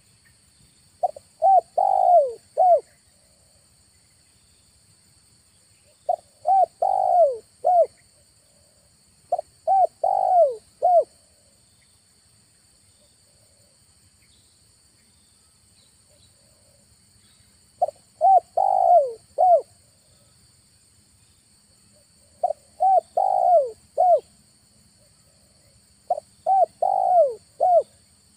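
Spotted dove (tekukur) decoy cooing loudly: six phrases of four or five quick coo notes each, spaced a few seconds apart, with a longer gap in the middle. A steady high buzz of insects runs underneath.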